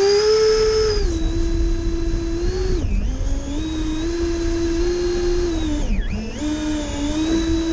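Twin 70 mm 12-bladed electric ducted fans of an RC Me 262 jet spooled up to a steady high whine, throttled back briefly twice and brought up again.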